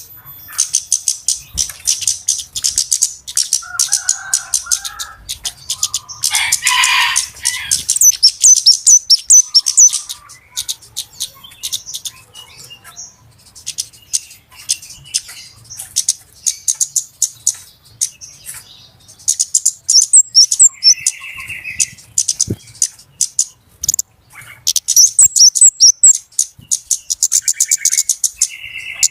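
Flowerpeckers (cabe-cabean) calling busily: a rapid, continuous stream of sharp high chips, with louder runs of chattering a few times.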